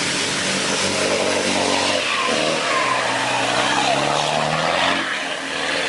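Off-road 4x4 truck engine revving under load, its pitch climbing from about a second in and dropping away about five seconds in, over a steady rush of noise.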